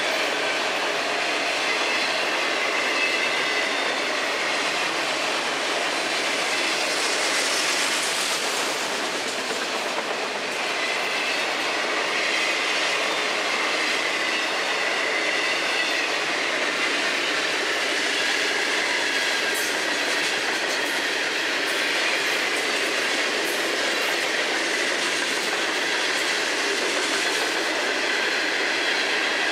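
Florida East Coast Railway freight train cars rolling past: the steady clatter and rolling noise of steel wheels on the rails.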